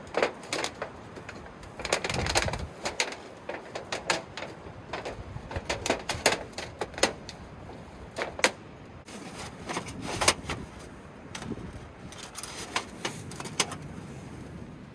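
Irregular clicks, knocks and rustles of tent gear being handled and fastened, over a steady background of wind noise.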